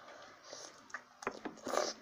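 Close-up chewing of udon noodles: soft wet mouth clicks and smacks, with a brief louder noisy sound near the end.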